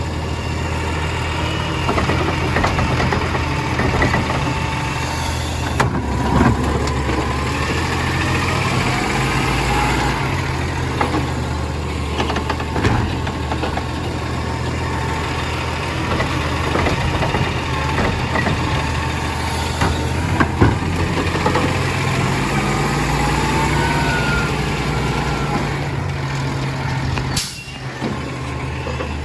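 Compost collection truck running steadily, its engine and machinery pitch rising and falling, with occasional sharp knocks and clanks.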